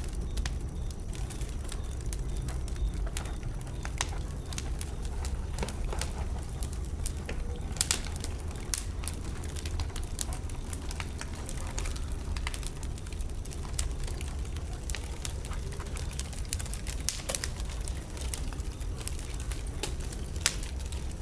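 Burning wood in a bonfire crackling and popping: irregular sharp snaps over a steady low rumble, with one louder pop about eight seconds in.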